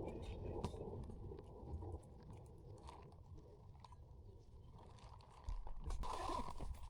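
A person chewing and crunching food, with scattered small clicks over a low rumble that jumps louder about five and a half seconds in.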